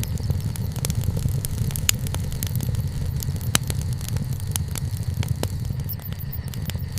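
Wood bonfire burning: a steady low rumble with frequent sharp crackles and pops of the burning wood, the loudest about two and three and a half seconds in.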